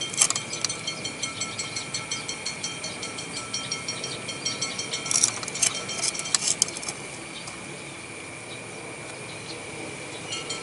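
Steady high drone of insects with fine ticking, and a few sharp light clicks from handling the knife-sharpening jig, most of them between about five and seven seconds in.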